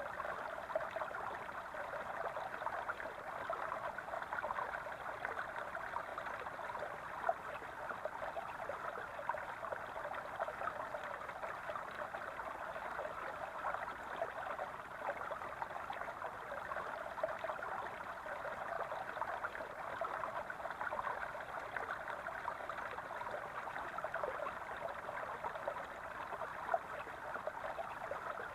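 Small stream babbling and gurgling steadily over stones, a busy continuous trickle with small splashes flickering through it.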